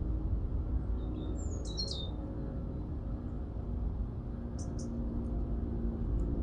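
Small garden birds calling at a feeder: a few short, high chirps with falling pitch about two seconds in, and a couple more brief high calls near five seconds. A steady low background rumble runs underneath.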